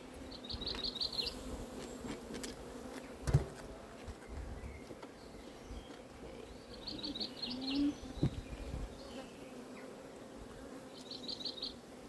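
Honeybees humming steadily around an open hive during a frame inspection. There is a single sharp knock about three seconds in, and a short high trill of quick notes three times.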